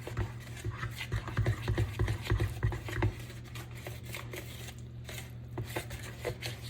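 Kitchen utensil scraping and knocking against a mixing bowl while flour is stirred into banana bread batter. The strokes come thick and fast for about three seconds, then turn lighter and sparser, over a steady low hum.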